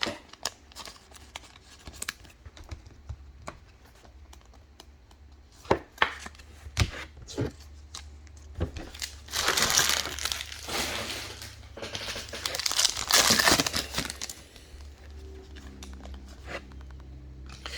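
A trading-card pack wrapper being crinkled and torn open, in two longer stretches partway through, amid scattered light clicks of cards being handled.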